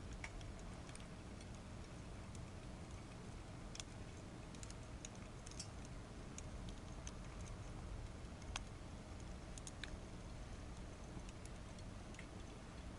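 Wood fire burning in a small secondary-combustion fire stove: irregular crackles and snaps, the sharpest about eight and a half seconds in, over a steady low rumble.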